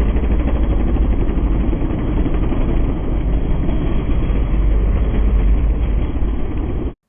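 Motocross dirt bike engines running hard during a race, a dense, dull sound heavy in the bass that cuts off suddenly near the end.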